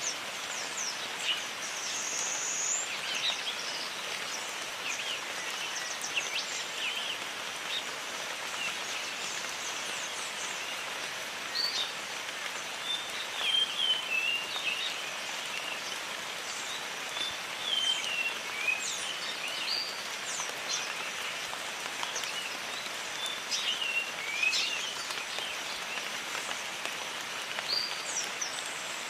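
Steady rain hiss in a jungle, with many short, high bird chirps and whistles scattered throughout.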